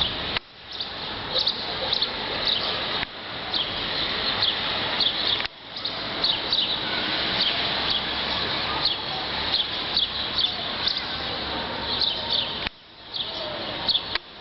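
Small birds chirping repeatedly over a steady outdoor background noise. The sound drops out abruptly for a moment several times.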